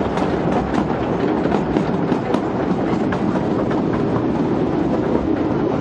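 Kurobe Gorge Railway's 762 mm narrow-gauge trolley train running, its wheels clattering on the rails with frequent sharp clicks over a steady rumble. A low hum grows stronger in the second half.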